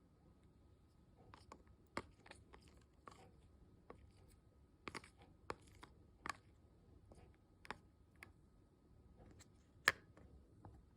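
Faint, irregular clicks and taps of small objects being handled, about a dozen spread unevenly, the loudest near the end, over a faint steady high hum.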